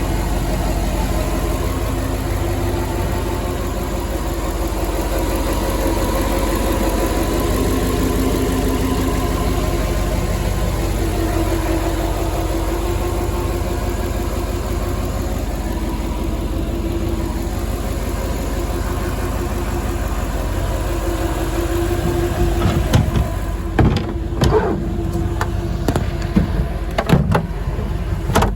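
2016 Heyday WT-1 boat's inboard engine idling steadily. Several sharp knocks come in over the last few seconds.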